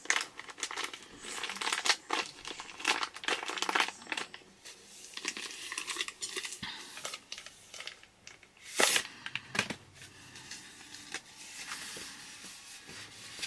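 Packaging being crinkled, handled and torn open by hand, a run of irregular crackles with a louder rip about nine seconds in.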